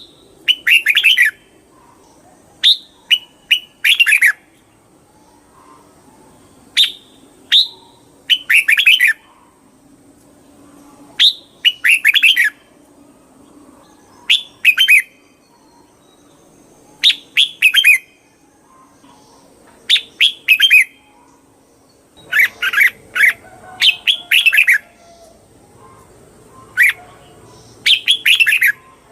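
Red-whiskered bulbul singing: short, bright phrases of a few quick warbled notes, repeated every couple of seconds.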